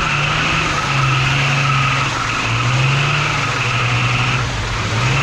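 Off-road vehicle's engine held at steady high revs in three or four surges of a second or two each, the throttle easing off briefly between them.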